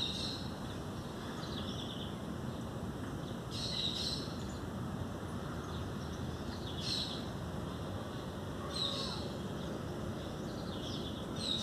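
Birds chirping: short clusters of high chirps that recur every two or three seconds, over a steady low background noise.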